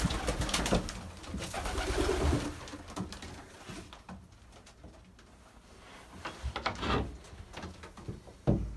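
Racing pigeons cooing in the loft, mostly in the first few seconds, with scattered knocks and rustling.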